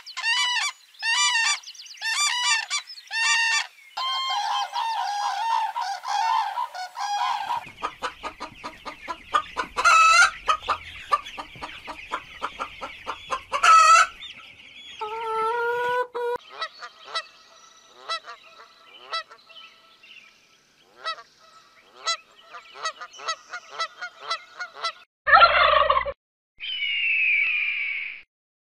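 A run of different bird calls: short repeated honking calls at first, then a long gabbling and rapid chattering in the middle, scattered chirps, and two loud descending screeches near the end.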